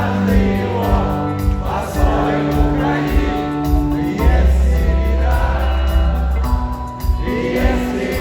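Live rock band music: held chords over a steady bass, an instrumental stretch between sung lines.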